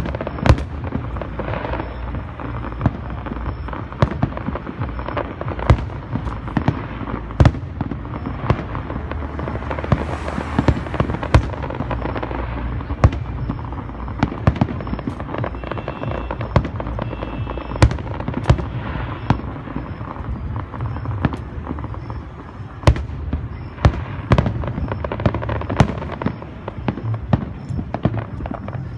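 Large fireworks display: a continuous rumble of shell bursts with sharp bangs every second or two, and a brief high hiss about ten seconds in.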